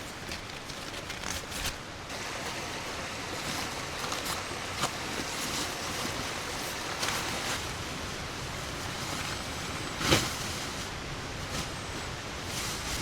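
Steady rushing of water, with a few short sharp knocks over it, the loudest about ten seconds in.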